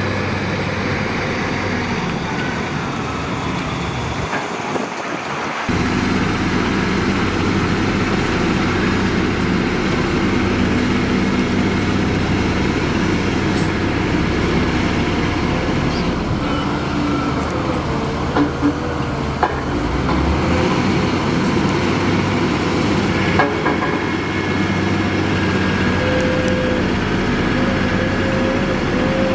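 Diesel engines of heavy earthmoving machinery running steadily. The low engine rumble drops out for about a second around five seconds in, then comes back louder, and there are a few short metallic clanks about two-thirds of the way through.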